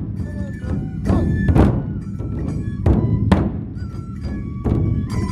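Matsue dou procession music: large dou barrel drums struck with heavy, irregularly spaced beats, with a bamboo flute melody held over them.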